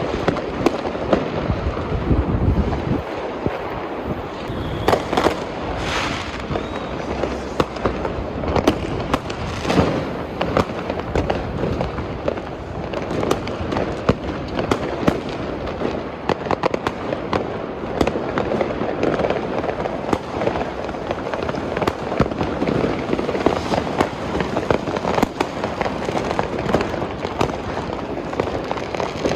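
Fireworks and firecrackers going off in a dense, unbroken run of cracks and bangs, many overlapping, with the occasional louder bang standing out.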